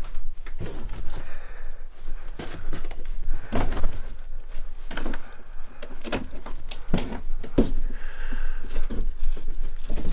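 Footsteps on bare, old wooden stairs and floorboards: a run of irregular knocks and thunks.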